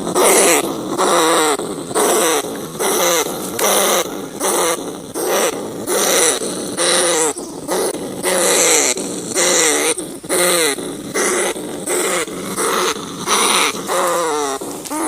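Field rats and bandicoot rats crying: short, wavering, falling cries repeated about once a second.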